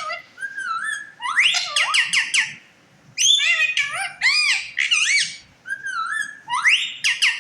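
Parrot vocalising in quick runs of whistled, speech-like calls, with short pauses about three seconds in and again near five and a half seconds.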